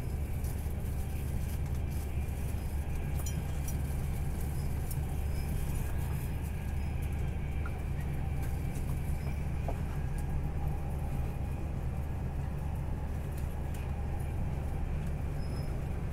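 Steady low rumble of a Queensland Rail Tilt Train running at speed, heard inside the passenger carriage, with a few faint ticks.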